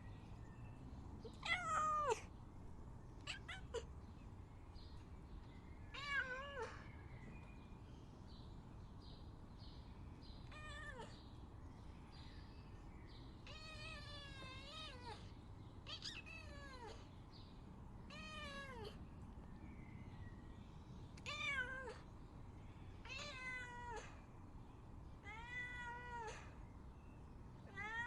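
A domestic cat meowing over and over, about a dozen separate meows roughly two seconds apart. Most are short and fall in pitch, and one near the middle is longer and wavering.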